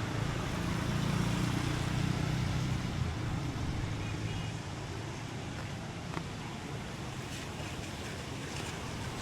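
Street traffic ambience: a vehicle's low engine rumble for the first three seconds or so, easing off into a steady hiss of traffic.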